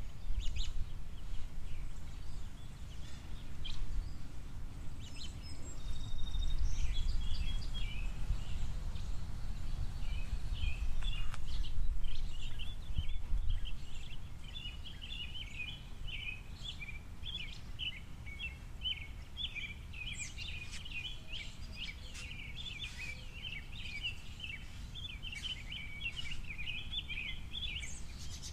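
Small songbirds at a seed feeder chirping and twittering in short notes, sparse at first, then a busy run of chatter from about ten seconds in. A low background rumble sits underneath, louder in the first half.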